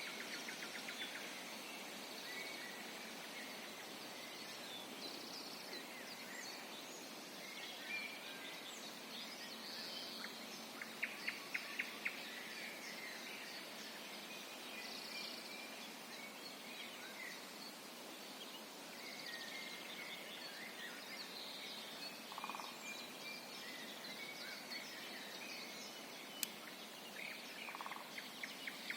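Several wild birds singing and calling together, many short high notes overlapping, over a steady background hiss. About eleven seconds in there is a quick run of about five loud, sharp notes.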